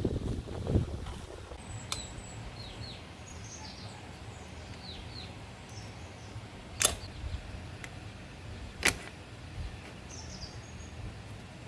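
Small birds chirping in the background over a low steady hum, with two sharp knocks about two seconds apart in the second half.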